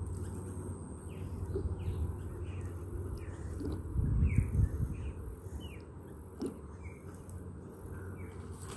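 A bird chirping a short note over and over, about two a second, over a low rumble that swells briefly about four seconds in.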